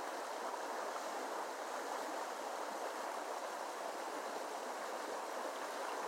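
Creek water flowing, a steady even rush of running water.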